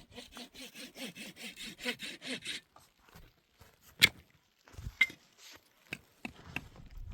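Wood being sawn by hand in quick, even rasping strokes, about five a second, that stop after about two and a half seconds. Then comes a single loud, sharp crack, another about a second later, and a few lighter knocks.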